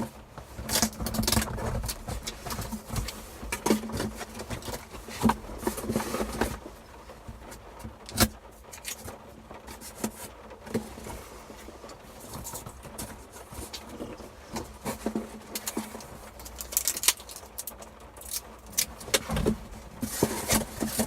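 Merchandise being handled and put back into a large mailing envelope: rustling with irregular clicks and knocks, one sharper knock about eight seconds in.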